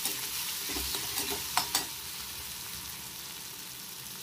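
Rugda and tomato masala sizzling in oil in a metal kadai while a metal spatula stirs through it, with a few sharp clicks of the spatula against the pan about a second and a half in.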